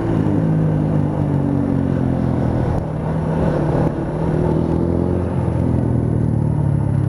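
Yamaha YZF-R125's 125 cc single-cylinder four-stroke engine running under load while riding, its note rising and falling with the throttle, with a dip about four seconds in before it climbs again.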